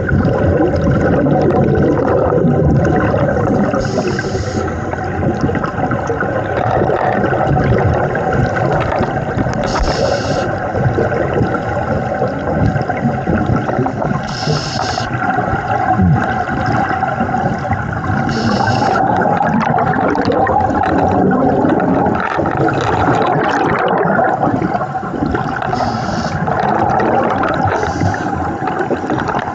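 Scuba diver breathing through a regulator underwater: a short hiss on each inhalation every four to five seconds, over a constant gurgle and rumble of exhaled bubbles.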